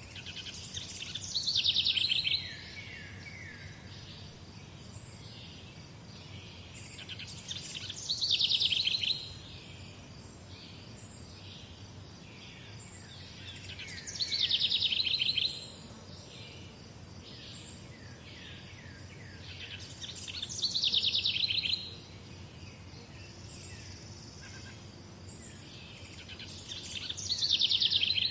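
Morning birdsong: one songbird repeats the same short song five times, about every six seconds, each a quick run of notes that falls in pitch, with softer chirps from other birds between the songs over a steady low background noise.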